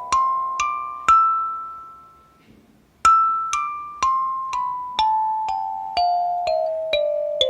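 Budget flatboard kalimba played note by note in a sound test: a scale climbs for its last three notes and the top note rings out, then after a pause of about two seconds the scale runs back down, about two ringing plucked notes a second.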